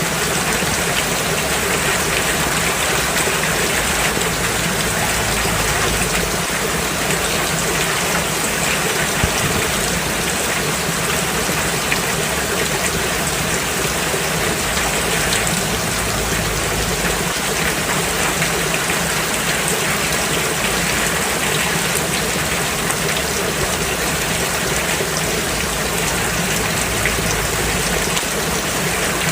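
Steady rain falling on a road surface, an even hiss of drops with occasional faint ticks.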